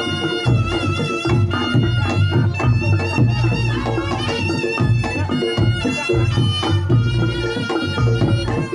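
Reog Ponorogo ensemble music: a slompret, a shrill double-reed shawm, plays a wavering, ornamented melody over regular kendang drum strokes and a repeating pattern of gong-chime notes.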